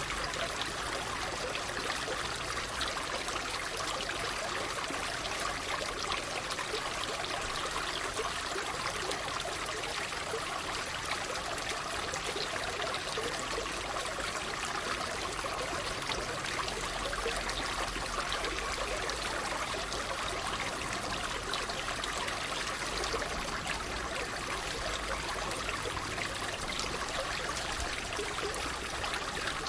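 Water babbling and trickling steadily, like a small stream.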